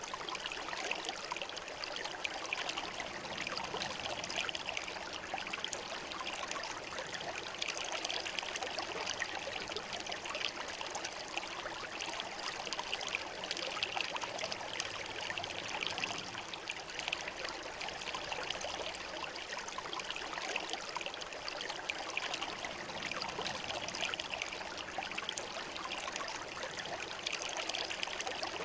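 Shallow river flowing over stones, a steady babbling and trickling.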